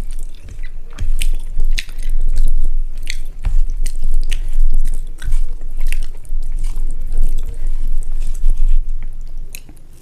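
Close-miked mouth sounds of a person eating rice and egg curry: wet chewing with frequent sharp smacks and clicks, spaced irregularly.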